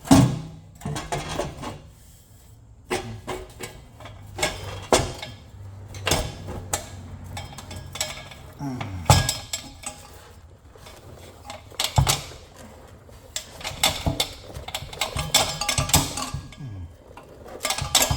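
Irregular metallic clanks and clinks of exhaust parts and tools being handled while a C5 Corvette's X-pipe exhaust is fitted back on. Sharp knocks come at uneven intervals, with busier clattering now and then.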